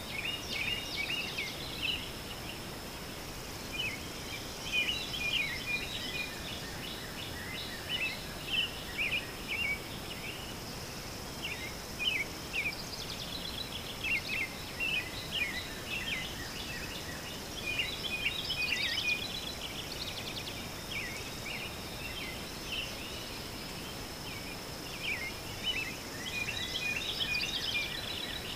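Birds chirping and twittering, many short calls, some in quick trills, over a steady hiss and a thin, steady high whine.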